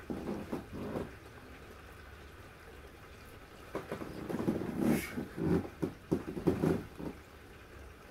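Steady rain, heard from indoors through a window pane. Louder, irregular muffled knocks and rustles come in two clusters, briefly at the start and again from about four to seven seconds in.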